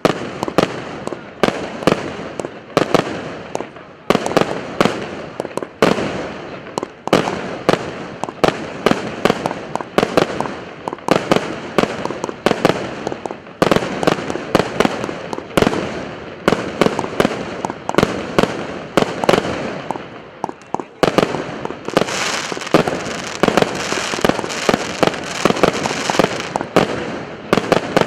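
A 100-shot firework cake with 0.8-inch tubes firing in rapid succession: a continuous string of sharp bangs, several a second. Near the end the shots thicken into a denser, hissier flurry.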